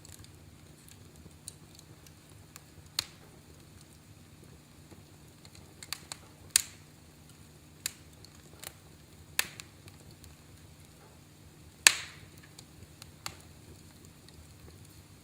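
Wood fire crackling in a fireplace: sharp, irregular pops every second or so, the loudest one late on, over a faint low steady hum.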